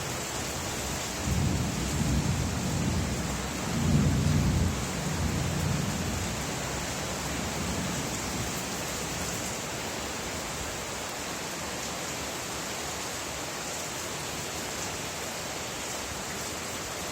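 Steady rain with a low roll of thunder that starts about a second in, swells around four seconds and fades out by about six seconds.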